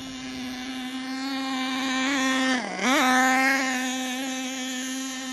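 HPI Savage RC truck's 4.1cc nitro engine running at speed with a steady high buzz, dropping briefly in pitch just past the middle and then picking back up. The engine is still tuned a little rich.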